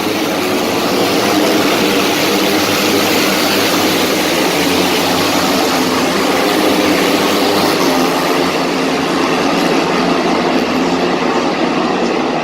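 Steady, loud running noise of a vehicle, with several low engine or motor tones held under a dense rushing noise.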